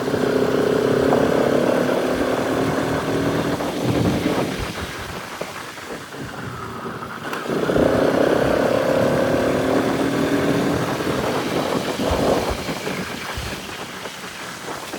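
Bajaj Pulsar RS200's single-cylinder engine pulling under throttle twice: each time the engine note climbs slowly for several seconds, then eases off. The lull between pulls starts about four seconds in, and the second pull starts about halfway through. A steady rush of wind and trail noise runs underneath.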